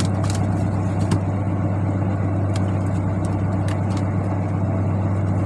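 Fishing boat's engine running steadily with a low hum, with a few faint clicks and knocks over it.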